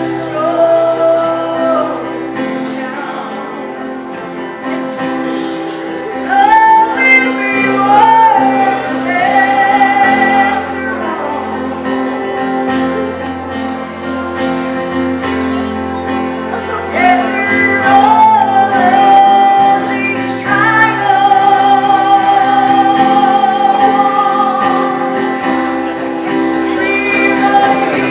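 Gospel song sung by a woman over held instrumental chords and a slow-moving bass line, swelling louder in two phrases.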